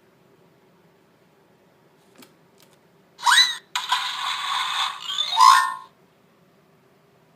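A small click from a button being pressed, then a play-a-sound book's speaker plays a recorded sound effect for about three seconds: a rising whistle-like glide, a stretch of hissing noise, and another rising tone before it cuts off.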